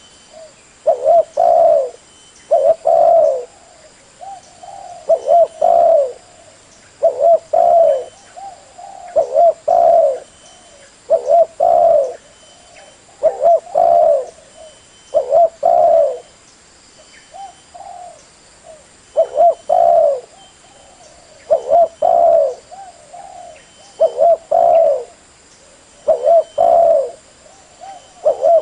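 Spotted dove singing over and over: a short phrase of two or three coos roughly every two seconds.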